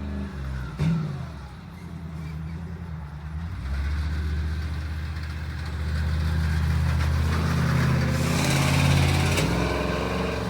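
Monster truck engine running and revving, growing louder from a few seconds in and loudest near the end before dropping back. A single sharp knock sounds about a second in.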